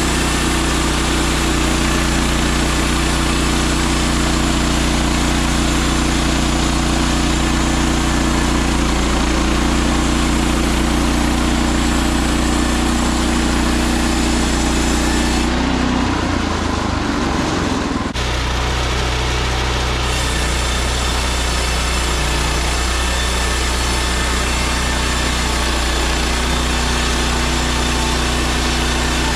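Portable bandsaw mill's gasoline engine running steadily at a constant speed, with a short change in the sound about two-thirds of the way through before it settles again.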